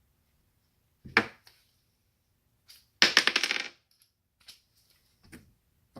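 A sharp knock about a second in. About three seconds in, small metal parts from electronics being taken apart are dropped and clatter briefly on a hard surface, a quick metallic rattle that dies away.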